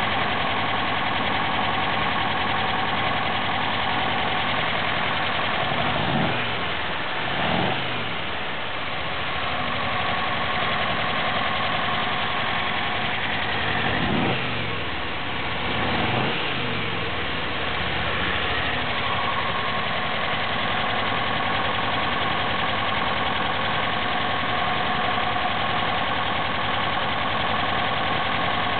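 1965 Porsche 356C's 356SC air-cooled flat-four engine idling steadily, blipped twice quickly about a fifth of the way in and twice more around the middle, the revs rising and falling back to idle each time.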